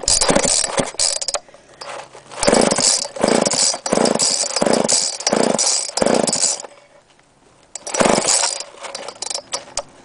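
Homelite Super 2 two-stroke chainsaw being pull-started after priming, with the choke open: a series of short bursts as the starter cord is yanked and the engine turns over, about one every two-thirds of a second in the middle, then a pause and another pull.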